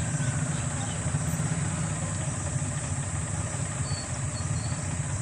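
Swaraj tractor's diesel engine running steadily at an even speed.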